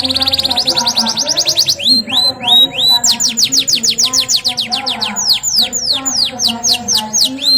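Domestic canary singing a rolling song: a fast trill of short repeated whistles for the first two seconds, then a run of quick falling sweeps at several notes a second.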